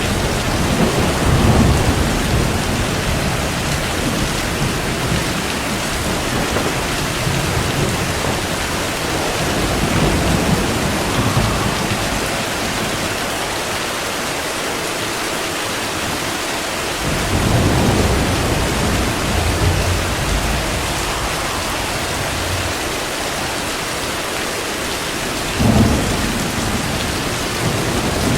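Steady heavy rain with rolling thunder rumbling low several times, and a sharper, louder thunderclap near the end.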